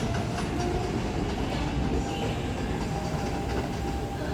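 Kintetsu 22600 series electric limited express train running as it pulls out of a station: a steady rumble with a faint high whine.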